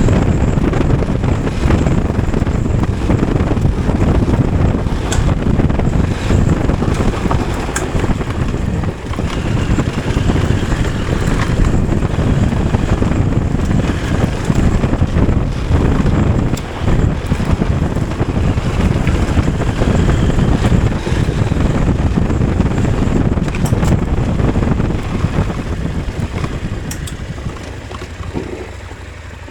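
Wind buffeting the microphone on a moving motorcycle, with the engine running underneath. It eases off over the last few seconds.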